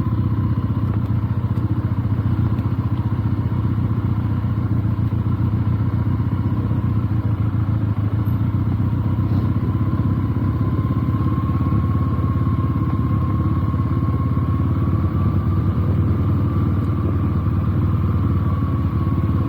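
Benelli TNT 300's parallel-twin engine running steadily on a slow off-road ride, with an even, unchanging note throughout.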